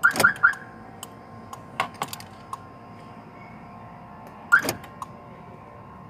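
Aftermarket car alarm siren giving short chirps while being installed and tested: three quick chirps right at the start and one more about four and a half seconds in, with sharp clicks of wiring and plastic being handled between them.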